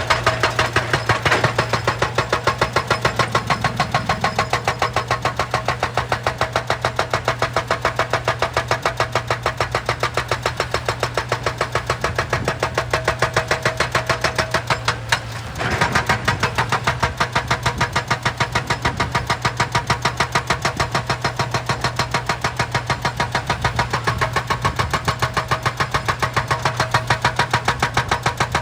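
Excavator-mounted hydraulic rock breaker hammering rock in rapid, even blows over the diesel engine's steady hum, with a short pause about fifteen seconds in.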